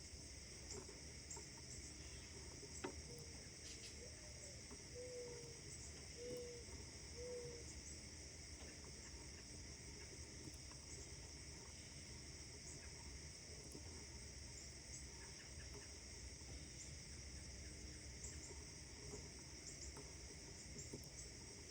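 Faint early-morning outdoor ambience: a steady high chirring of insects and distant birds, with four short low calls between about three and seven seconds in, over a low background rumble.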